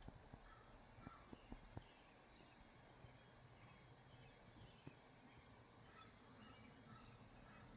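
Near silence: faint outdoor ambience with short, high chirps repeating about every half second to second, and a few soft clicks.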